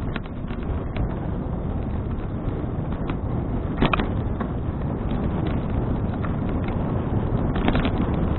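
Wind rushing over an action camera's microphone while riding a bicycle: a steady low rumble with many scattered clicks and knocks, the loudest just under four seconds in.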